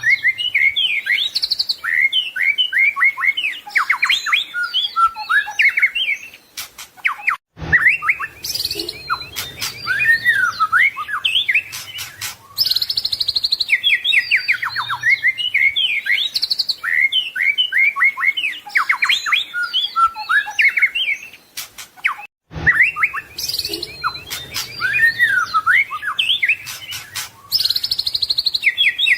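White-rumped shama (murai batu) singing a rich, varied song of rapid trills and whistled phrases. The recording is a loop: the same run of phrases repeats about every 15 seconds, with a brief drop-out at each join.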